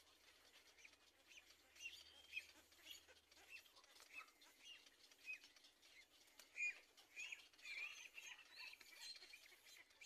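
Faint, short bird chirps repeated many times, coming thicker and louder in the second half.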